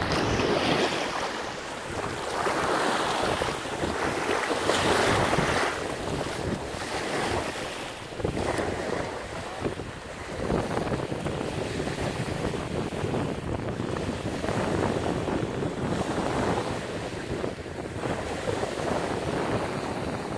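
Strong wind buffeting the microphone over choppy bay water, with waves about a foot and a half high washing; the noise swells and eases in gusts every few seconds.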